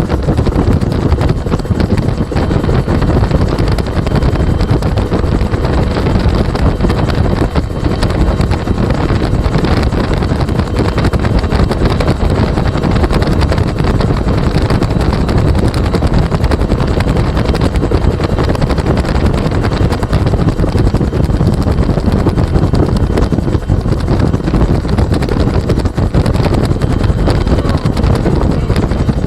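Bell UH-1 Huey helicopter with a two-blade rotor in flight, heard from the gunner's seat: steady, loud rotor and turbine engine noise.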